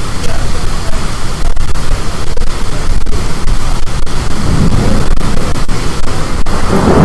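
Strong storm wind blasting the microphone: a loud, steady rush with deep rumbling, swelling lower and louder about four and a half seconds in and again near the end.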